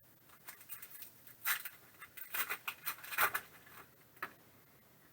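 Trading cards being handled and flipped through one after another: a quick run of short papery swishes and clicks over about three seconds, with one more near the end.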